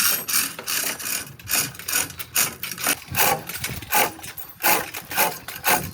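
Hand tools at work on metal: a quick, irregular run of sharp knocks and clicks, several a second.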